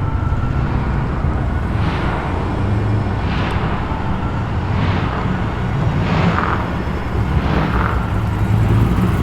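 Holden Commodore SS V8 burbling at low speed, a steady deep rumble that grows slightly louder near the end.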